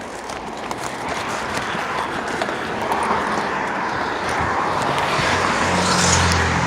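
A motor vehicle's noise growing steadily louder, with a low engine drone strongest near the end.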